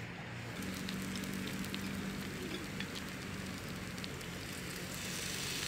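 Takoyaki cooking in a takoyaki plate over the heat: a steady sizzle with scattered small pops and crackles. A low steady hum runs underneath, and the sizzle grows louder and hissier near the end.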